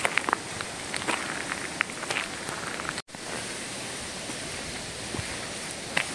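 Footsteps on the forest floor, a run of short crunches and snaps, then an abrupt cut about three seconds in. After it comes a steady rushing outdoor noise with only one more snap near the end.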